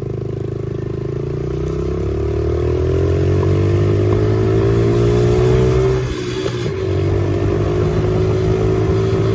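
Dirt bike engine running under throttle, its pitch climbing slowly for about six seconds as it speeds up, then dipping briefly and settling into a steady note.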